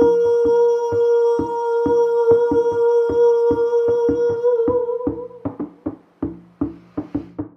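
Shamanic hand drum beaten steadily, about three strokes a second, under a sustained ringing tone with overtones. The tone wavers and stops about five seconds in, leaving the drum alone.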